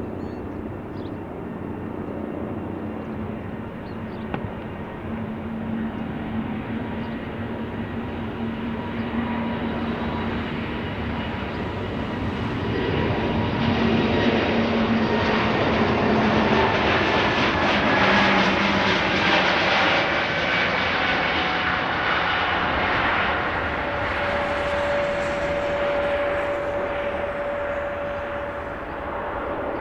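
Fixed-wing airplane passing by: engine noise swells to its loudest about halfway through, then eases off. Steady tones run through it and slide slowly down in pitch as it goes past.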